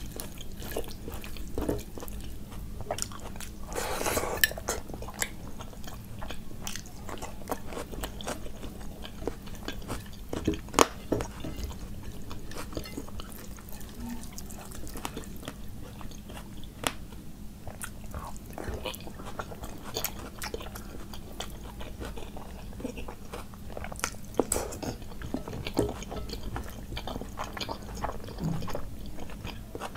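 Close-miked chewing and wet mouth sounds of a person eating curry and rice by hand, with fingers mixing and squishing rice on a plate. Irregular soft clicks throughout, with a sharper one about eleven seconds in.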